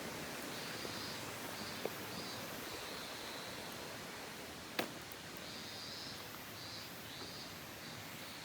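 Waterfall: a steady hiss of falling water. A faint high call repeats in short groups over it, and a single sharp click comes just before five seconds in.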